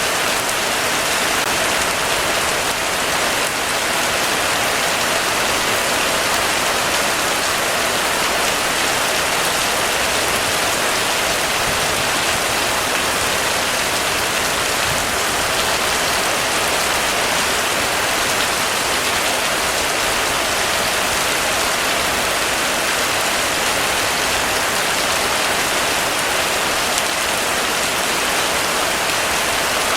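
Heavy rain falling steadily, an even hiss with no thunder or pauses.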